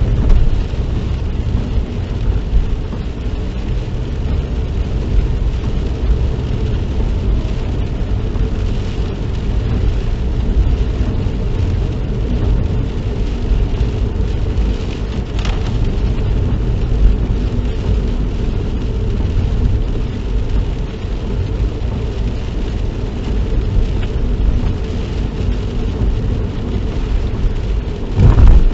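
Steady road noise inside a moving car: a low rumble of engine and tyres that carries on without a break.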